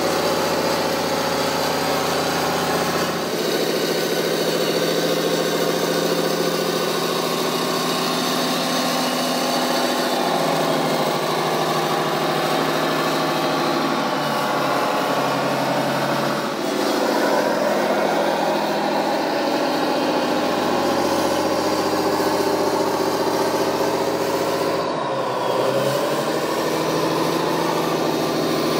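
An engine running continuously, its pitch shifting to new steady levels several times.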